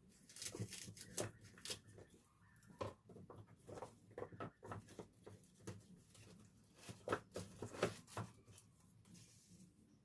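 Irregular rustling with light clicks and taps of hands handling kitchen items, with two sharper taps a little past the middle.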